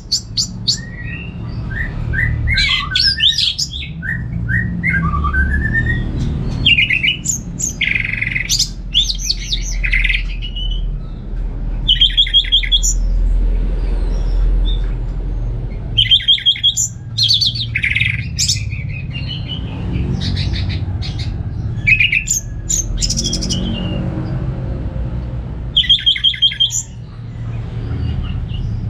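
Orange-headed thrush singing: a varied, continuous song of whistled and chattering phrases, broken every few seconds by short, rapid runs of high notes, over a steady low rumble.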